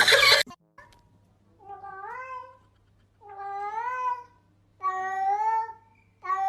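A cat meowing over and over: four drawn-out meows, each about a second long, rising in pitch and then held, with short pauses between. There is a brief loud burst of other noise at the very start.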